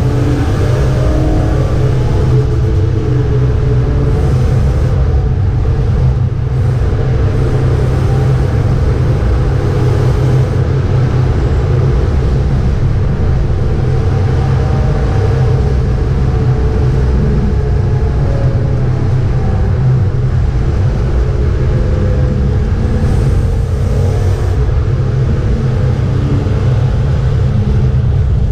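BMW 325 E36's straight-six engine pulling hard at track speed, heard from inside the cabin, with a loud, steady low drone of engine, road and wind noise; the engine note drifts up and down with the throttle and gears.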